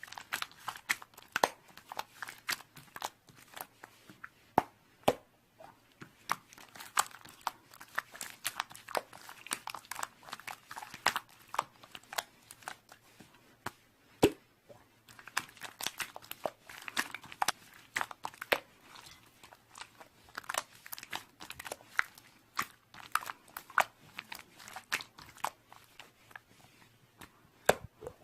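Slime being squeezed and poked by hand, making a rapid, irregular run of crackling clicks and pops.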